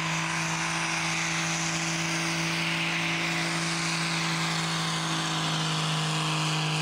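Pickup truck engine held at high, steady revs under full load while pulling a weight sled, with a strong steady hiss over it.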